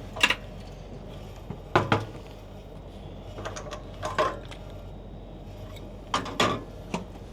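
Scattered knocks and clicks of a plastic gasoline jug being handled to refuel a portable generator, in four or five separate clusters.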